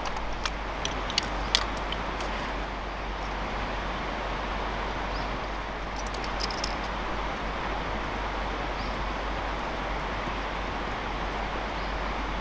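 Cooking over a campfire: a steady hiss with scattered sharp crackles and pops, a cluster in the first two seconds and another around six seconds in.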